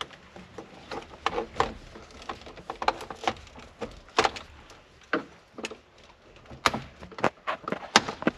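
Irregular plastic clicks and knocks as the instrument cluster and its connectors are worked loose from the dashboard, several sharp knocks a second or so apart.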